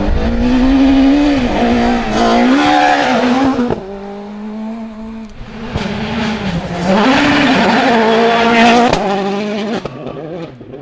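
Rally car engines at full throttle on a gravel stage, the revs rising and dipping through gear changes, in two loud passes. The first cuts off sharply about four seconds in; the second builds from about six seconds and fades near the end.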